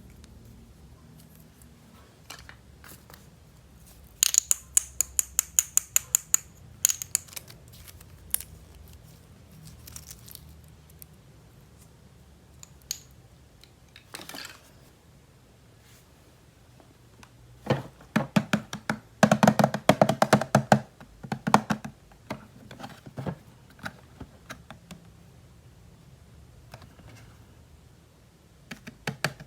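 Plastic toy pieces and packaging being handled and set down: a quick run of sharp clicks a few seconds in, and a denser clatter of plastic knocks about two-thirds of the way through, with quiet handling between.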